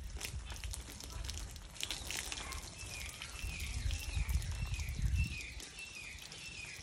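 A bird calling over and over from about two and a half seconds in, short falling notes about two or three a second, over a low rumble and scattered clicks.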